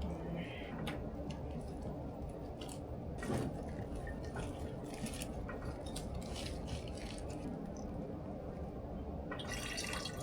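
Liquid dripping and trickling with scattered small clicks and taps of kitchen work, over a steady low hum; the taps come thicker near the end.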